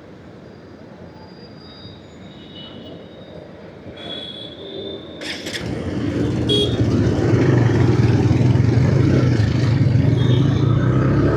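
Motorcycle ride: quiet road noise with a few faint high tones, then, about halfway through, the engine and wind noise swell as the bike picks up speed and settle into a loud, steady run.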